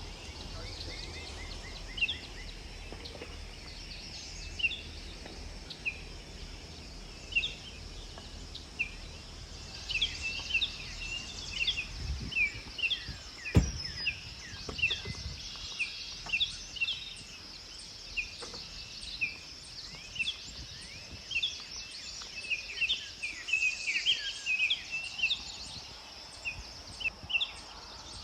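Many birds chirping in short, repeated calls over a steady high-pitched hiss, with a single sharp click about halfway through.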